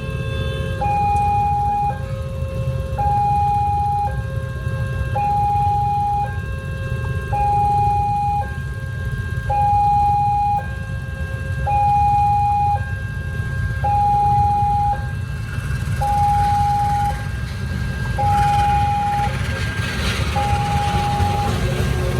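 Railway level-crossing warning alarm sounding an electronic tone about one second on and one second off, repeating every two seconds, which means a train is approaching or the crossing is closed. At first a lower tone alternates with it. Idling road traffic runs steadily underneath.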